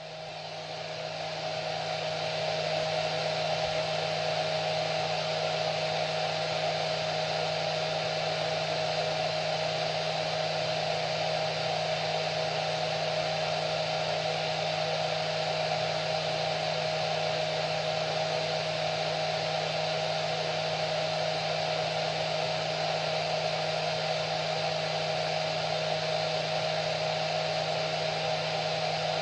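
Hair dryer running steadily: a continuous airy rush with a steady motor hum underneath. It fades up over the first couple of seconds, then holds level.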